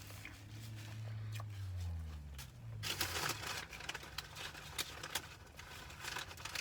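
A man's low hummed "mmm" for a couple of seconds, then eating sounds: chewing with sharp clicks and rustling from handling the sandwich.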